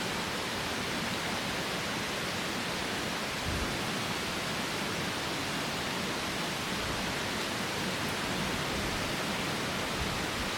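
Strong wind blowing steadily, a broad even rush, with a low buffet of wind on the microphone about three and a half seconds in.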